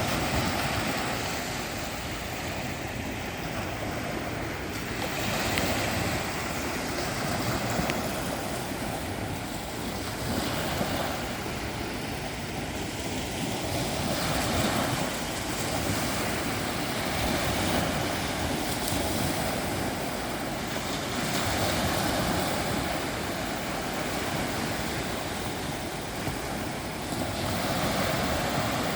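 Sea waves washing onto the shore, a fresh surge coming every five seconds or so.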